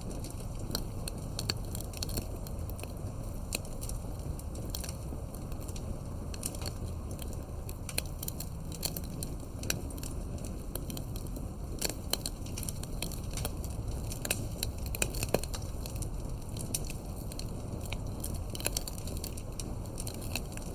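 Campfire of burning firewood crackling steadily, with irregular sharp pops and snaps over a low rumble of the flames; a few louder pops in the second half.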